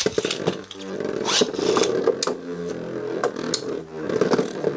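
Beyblade Burst tops spinning in a plastic stadium: a steady whir with repeated sharp clacks as they collide.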